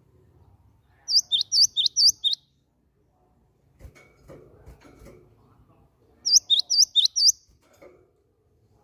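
Cinereous tit (gelatik batu) singing: two phrases of quick, high, sweeping notes repeated in rapid succession, about five notes a second in and four more near the six-second mark. Faint scuffing noises in between.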